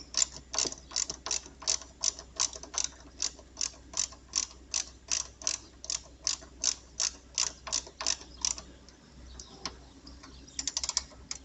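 Ratchet tool clicking at a steady pace of about three to four clicks a second as it turns the chassis ground screw that holds the negative cables. It stops about two-thirds of the way through, then gives a quick flurry of clicks near the end.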